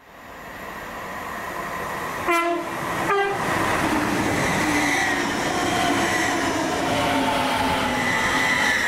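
A train at a station sounds two short horn blasts, about two and three seconds in. Steady train running noise fades in at the start and carries on under and after the blasts.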